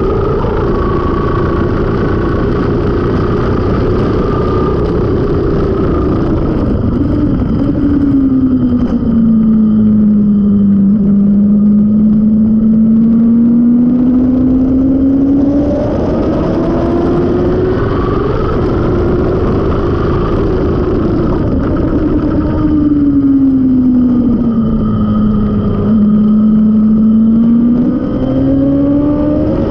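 Suzuki GSX-R750 K5's inline-four engine with a Mivv carbon exhaust, heard from on board at track speed. The engine note sinks over a few seconds and climbs again, twice, over a steady rush of wind and road noise.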